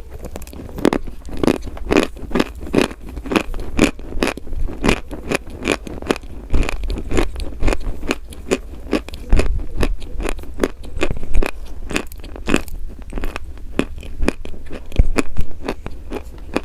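Close-up chewing of something hard and crunchy: a steady run of sharp crunches, about two or three a second.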